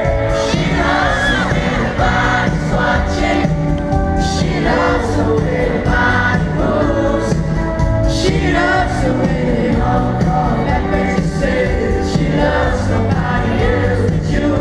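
Live pop concert music played loud over a PA: band with sung vocals, and many voices singing along together.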